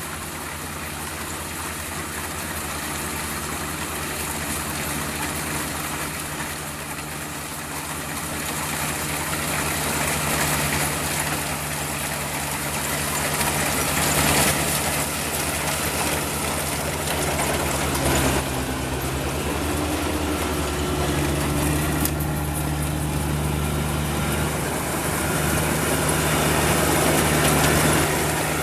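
Kubota DC-35 combine harvester's diesel engine running steadily, growing slowly louder, its pitch dipping briefly about two-thirds of the way through before recovering.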